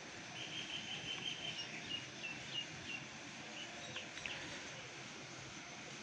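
A small bird chirping a quick run of short, high calls for about two and a half seconds over steady outdoor background hiss.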